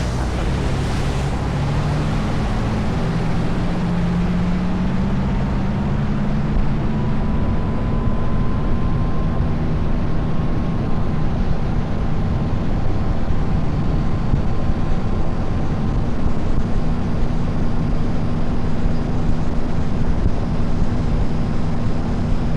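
Motorboat engine running under way with water rushing past the hull, its pitch rising a little over the first several seconds.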